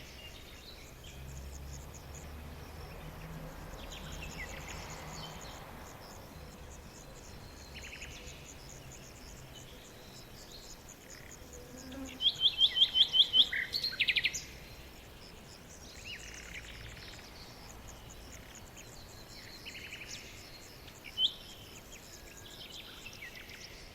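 Small songbirds singing: short song phrases come every few seconds over a steady, thin, high-pitched chirping. Near the middle, one bird gives a loud run of about seven quick, evenly spaced notes.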